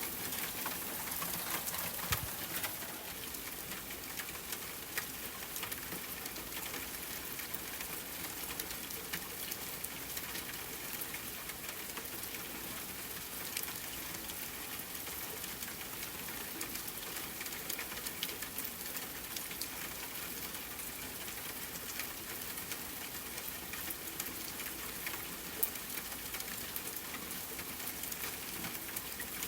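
Steady rain falling, an even hiss of patter dotted with small sharp ticks. There is a louder click about two seconds in and another near the end.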